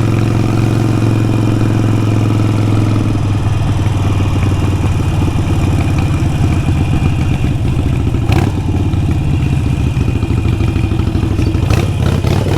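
Harley-Davidson Sportster 883 Iron's air-cooled V-twin idling at a steady pitch through a Vance & Hines exhaust, its beat turning choppier about three seconds in. A few short clicks come in the last third.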